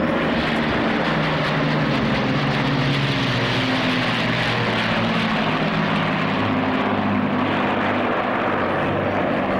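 Avro Lancaster bombers flying past, their Rolls-Royce Merlin V12 piston engines droning steadily. The deep multi-engine hum wavers slowly in pitch.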